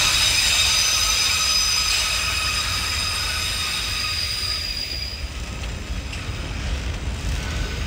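Train rolling past, its wheels giving a high-pitched squeal of several steady tones that fades out about five seconds in, over a steady low rumble.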